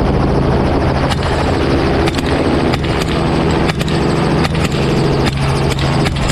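Helicopter running with a steady, loud drone, with about ten sharp rifle shots fired at irregular intervals over it.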